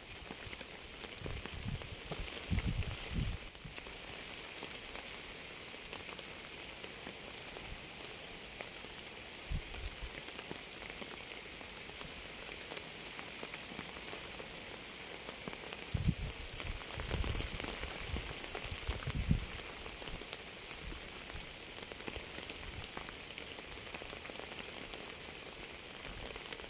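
Steady rain falling, an even fine patter of drops, with a few short low thumps about two seconds in and again around sixteen to nineteen seconds in.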